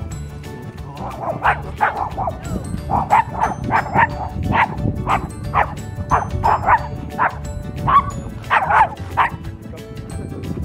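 A dog barking and yipping over and over in short, sharp calls, about two a second, starting about a second in, over background music.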